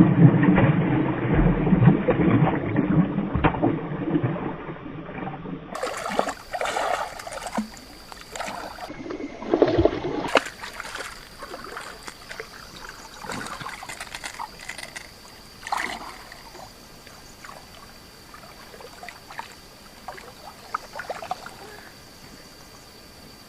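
Water sloshing and splashing, loudest and densest in the first five seconds, then quieter with scattered knocks and splashes.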